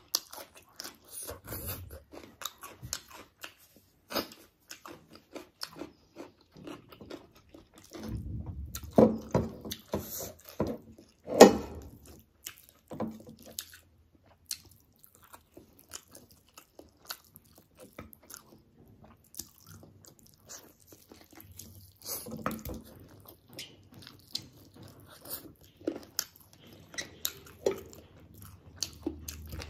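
Close-up eating sounds of a chicken leg in curry being bitten and chewed: many short wet clicks and smacks, densest and loudest about eight to twelve seconds in.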